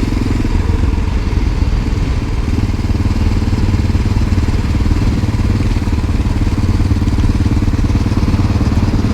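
1988 Honda NX650 Dominator's single-cylinder four-stroke engine running at a steady speed while the bike is ridden, with road and wind noise.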